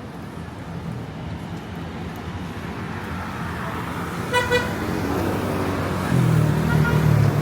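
Street traffic running past, with a vehicle horn giving two quick toots about four seconds in. Near the end a vehicle's engine rumbles louder, close by.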